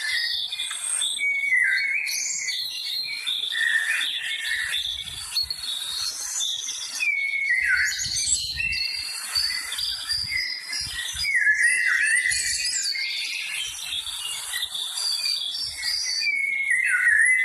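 A chorus of birds singing and chirping together. One downward-sliding call repeats about every four to five seconds.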